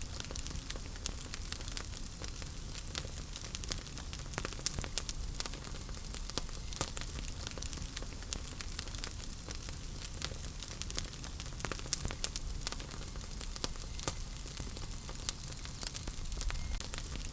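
Wood fire burning in a fireplace: a steady low rumble and hiss with many sharp, irregular crackles and pops.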